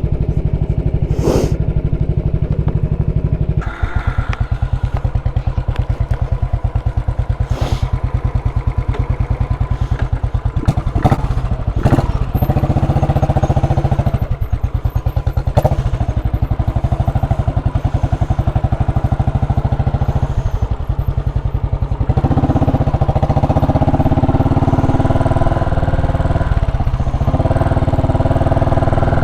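Royal Enfield Classic 500 single-cylinder engine running under way, its exhaust note from a muffler with the baffle out. The pitch drops about four seconds in, there are a few sharp clicks near the middle, and the exhaust gets louder from about three quarters of the way through.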